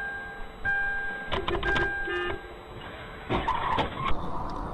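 Electronic beeping, one steady tone repeated about once a second, with scattered clicks. A little after three seconds comes a short burst of noise, and near the end it gives way to steady road noise.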